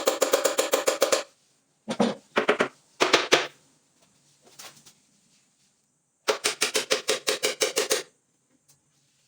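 Rapid trains of sharp mechanical knocks, about ten a second, in bursts: a long one at the start, two short ones around two and three seconds in, and another long one near the end.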